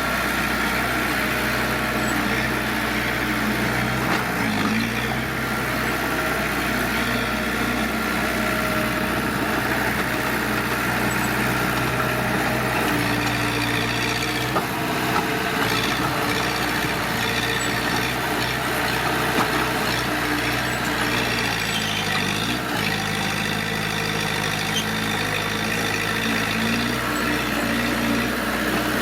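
Heavy diesel engines of earthmoving machines, a bulldozer and dump trucks, running steadily. The engine note shifts about four seconds in and again around twenty-two seconds, as a machine changes speed or load.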